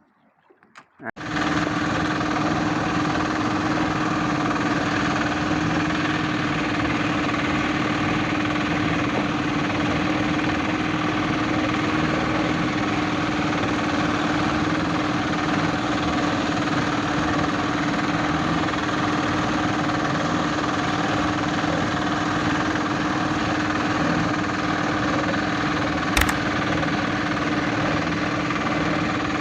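A boat engine running steadily at constant speed, starting abruptly after a second of near silence. There is a single sharp click near the end.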